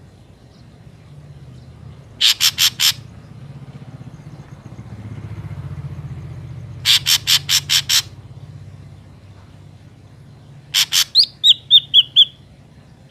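Ashy drongo calling: three bouts of rapid harsh notes, the first of four, the second of six, the last a longer run that ends in a few short whistled notes. A low steady hum lies underneath.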